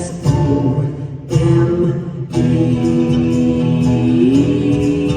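Live band music: long held sung notes over plucked acoustic guitar, with two brief breaks in the first two seconds and a rise in pitch about four seconds in.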